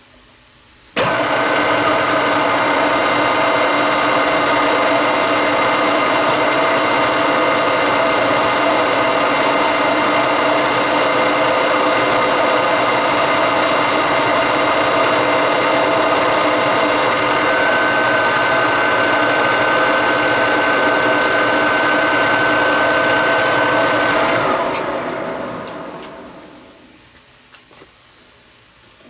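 Metal lathe switched on, running steadily with a gear whine while taking a single finishing pass down the outside diameter of a steel part; a thin high whine joins in the last several seconds. Switched off and spinning down a few seconds before the end.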